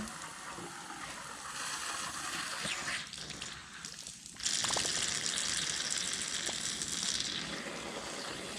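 Water running and splashing in the truck's cooling-system flush. About four and a half seconds in it turns into a louder, brighter hissing spray, which eases off about three seconds later.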